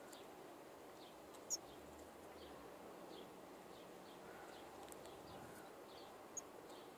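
Faint high bird chirps over a quiet steady hiss. Soft short notes repeat about twice a second, with two sharper, louder chirps: one about one and a half seconds in and one near the end.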